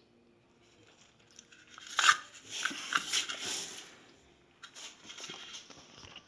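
Rustling and scraping of hands handling small objects, with a sharp click a little after two seconds in.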